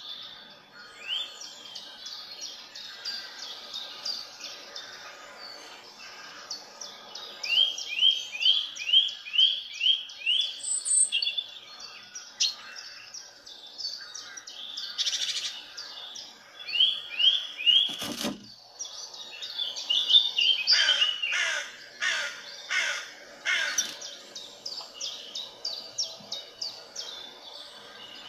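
Songbirds chirping, with repeated runs of short rising notes, a few a second, coming and going. A single sharp knock sounds about two-thirds of the way through.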